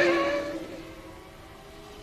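A Formula One car's engine fading away after passing at speed, its pitch sliding down, leaving a faint, falling whine in a lull between cars.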